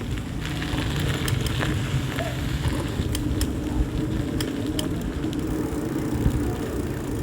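Riding a bicycle on a road: a steady low rumble with scattered light clicks and rattles.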